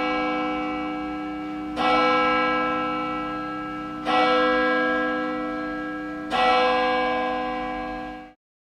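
Bell tones struck four times about two seconds apart, each ringing on and fading before the next; the ringing cuts off abruptly near the end.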